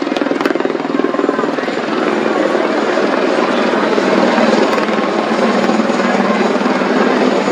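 AH-64E Apache attack helicopter flying, its rotor beating in a loud, steady, rapid chop.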